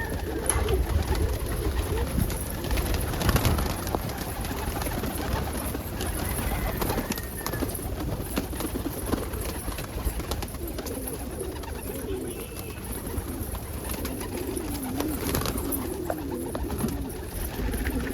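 Domestic pigeons in a loft cooing continuously, several birds overlapping, with occasional light clicks and scuffs.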